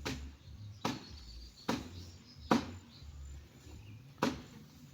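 Sharp knocks or taps about once a second, five in all, over a low steady hum.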